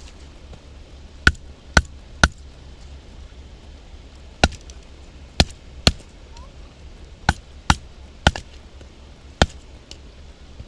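Batoning firewood: a baton striking the spine of a Mora knife driven into a piece of wood, about ten sharp knocks in irregular groups of two or three.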